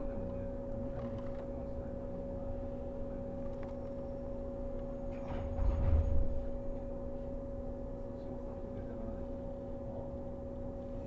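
Steady hum inside a 115 series electric train car standing still, with two constant tones from its on-board equipment and no traction motor sound. A brief low rumble about six seconds in.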